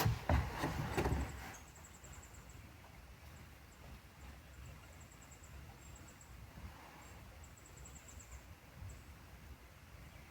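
A loud burst of noise that dies away in the first second and a half, then faint outdoor night ambience with insects chirping in short, high, rapid trains.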